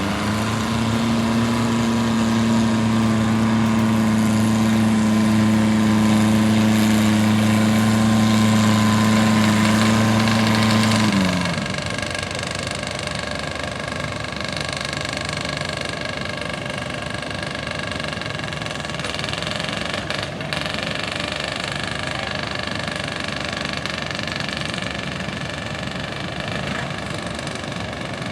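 Garden tractor engine revving up and held at full throttle for about eleven seconds during a pull, then dropping in pitch and loudness as it is throttled back. A quieter, steady engine keeps running afterwards.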